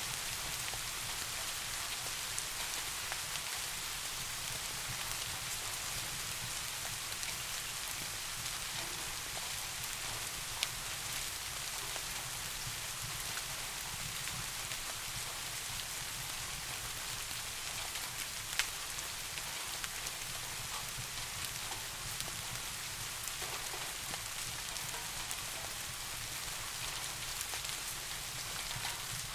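Steady rain falling, an even hiss, with a low steady rumble beneath it and a few sharp ticks, two standing out.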